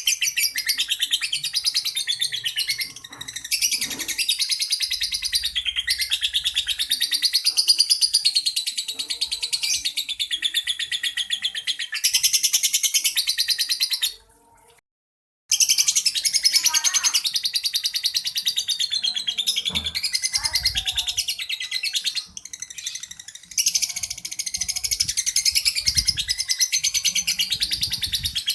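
Lovebird 'ngekek': a long, rapid, high-pitched chattering trill sustained for many seconds, the extended unbroken song prized in Indonesian lovebird song contests. It drops out for about a second around the middle, then resumes.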